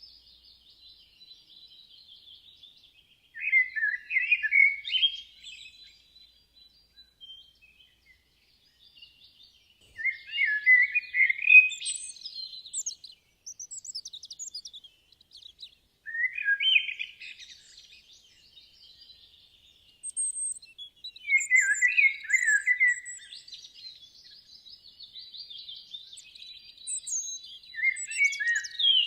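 Birds singing: one bird repeats a short trilled phrase about every five to six seconds, over fainter, steady chirping of other birds.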